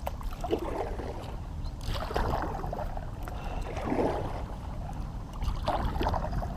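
Kayak paddle dipping and swishing through the water, a stroke every couple of seconds, over a steady low rumble.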